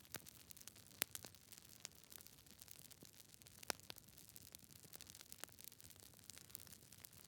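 Campfire crackling: scattered sharp pops and snaps of burning wood over a faint steady hiss, with two louder pops about a second in and a little before the four-second mark.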